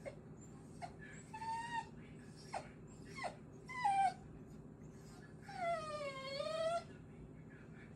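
Small dog whining in a series of short, high, falling whimpers and one longer whine of about a second near the end. She wants to go upstairs but won't jump past the bucket blocking her way.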